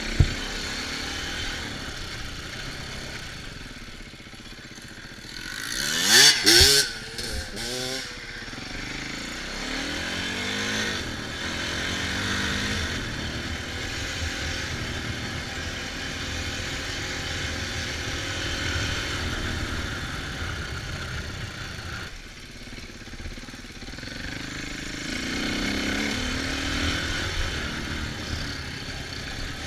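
Dirt bike engine running on the move, its revs rising and falling as it rides, with a loud surge of revving about six seconds in. There is a sharp knock at the very start.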